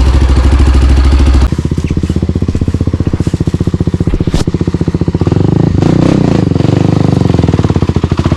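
Single-cylinder four-stroke trail motorcycle engine running under throttle, then backing off sharply about a second and a half in and running at lower revs, with a brief pick-up in revs a few seconds later.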